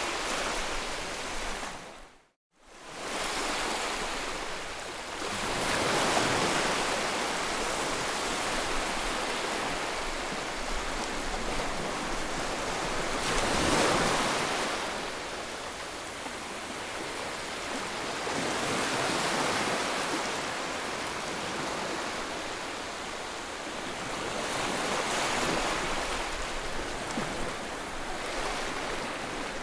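Ocean surf: a steady wash of waves that swells and falls back every five or six seconds, with a brief drop to silence about two seconds in.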